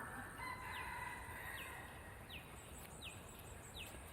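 Bird calling: a series of short, high notes, each sliding downward, repeated about every three-quarters of a second. In the first half they sound over longer steady whistled notes, which fade out before the middle.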